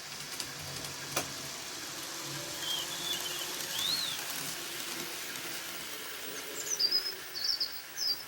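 Small birds chirping in short rising and falling calls over a steady hiss. A few chirps come about three to four seconds in, then a quicker run of them near the end.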